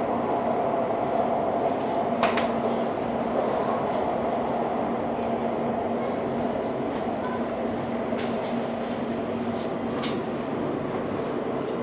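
Cabin running noise of a Class 710 Aventra electric train at speed: a steady rush of wheels on track with a steady hum, broken by a couple of sharp clicks, about two seconds in and near the end.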